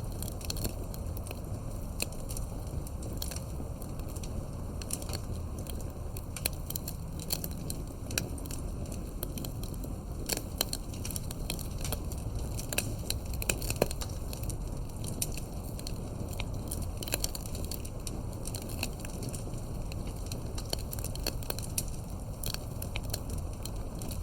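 Campfire crackling: irregular sharp pops and snaps from burning wood over a steady low rumble of the flames, with a few louder pops about halfway through.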